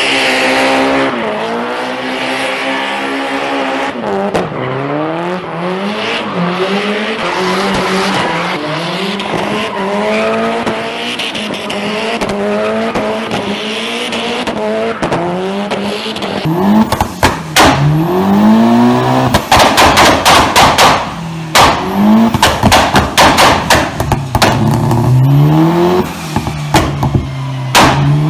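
Mitsubishi Lancer Evolution turbocharged four-cylinder engines being revved hard. During a donut the engine climbs in pitch again and again over squealing tyres. From about halfway on, a second Evo's revving is broken up by rapid loud bangs and pops from the exhaust: its anti-lag system firing.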